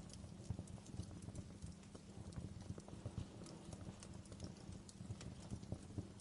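Wood fire burning in a fireplace: a low steady rumble with irregular crackles and small pops.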